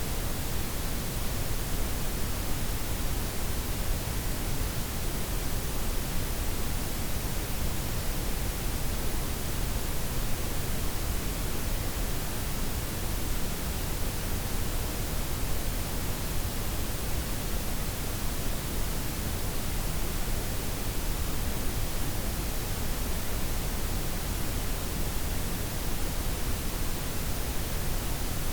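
Steady blend of white, pink and brown noise, a smooth even hiss with a deep rumble underneath and nothing changing.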